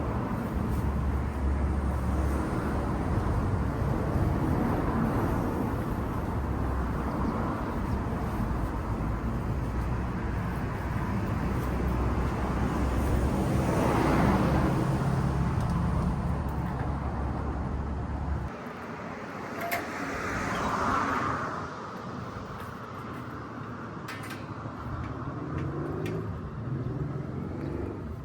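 Motor vehicle and road noise: a steady low rumble that drops away suddenly about two-thirds of the way through, with a couple of swells of hiss, as of vehicles passing.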